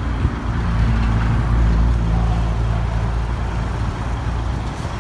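A heavy road vehicle driving past close by, its low engine note swelling to loudest about halfway through and then fading, over a steady rush of traffic noise.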